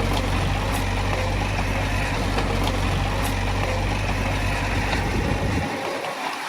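Heavy diesel construction machinery running steadily with a low engine drone, which cuts out abruptly near the end.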